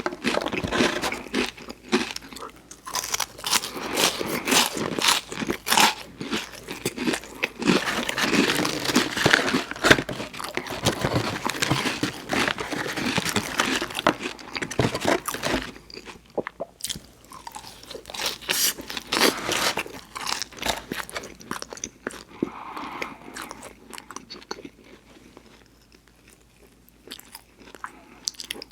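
Close-miked eating sounds: a person biting and chewing crunchy food with wet mouth noises, dense for the first half and sparser and quieter later on.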